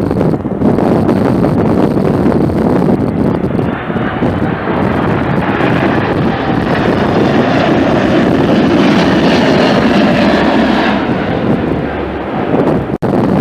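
Jet airliner passing by, its engine noise swelling over several seconds and easing off near the end, with wind buffeting the microphone throughout.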